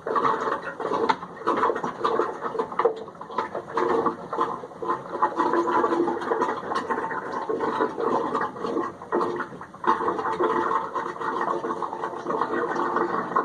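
Flathead screwdriver poking and scraping inside a water-filled pool pump housing, rattling irregularly against the impeller and wet debris. The impeller is being probed for leaves that slipped past a broken strainer basket and could be choking the water flow.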